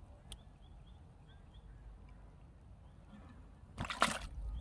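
Quiet outdoor background with faint, short, high bird chirps repeating every fraction of a second, a single sharp click near the start, and a brief rough burst of rustling noise about four seconds in.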